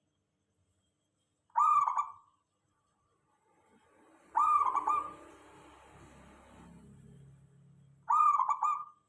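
Zebra dove (local perkutut) cooing: three short, burbling coo phrases, the second about three seconds after the first and the third about four seconds after that. A faint low hum sits in the background from the second phrase onward.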